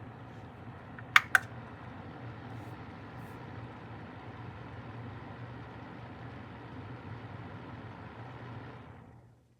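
Vornado AVH10 space heater running in fan-only mode: a steady rush of air over a low motor hum, with two sharp clicks just over a second in. The sound dies away about nine seconds in.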